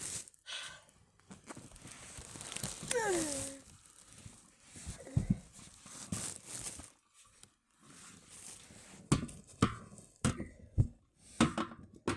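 Rustling and crinkling handling noise, with a short falling squeak about three seconds in and several sharp knocks in the second half.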